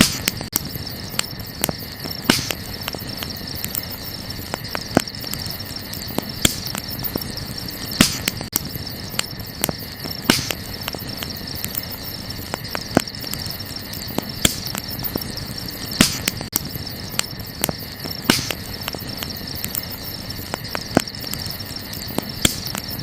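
Wood campfire crackling, with sharp pops every couple of seconds among smaller crackles, over a steady high chirring of crickets.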